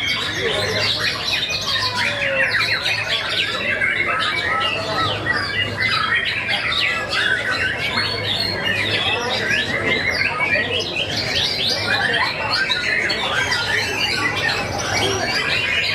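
White-rumped shamas (murai batu) singing loudly and continuously in a songbird contest, several birds overlapping in fast, varied whistles, trills and harsh notes. A steady low hum runs underneath.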